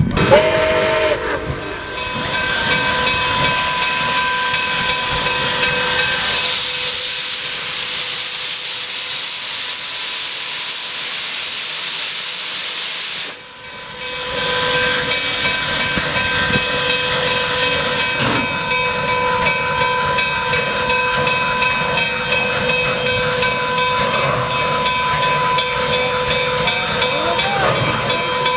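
Nickel Plate Road steam locomotive hissing steam steadily, with faint steady tones running through the hiss. The hiss cuts out briefly about halfway through and then picks up again.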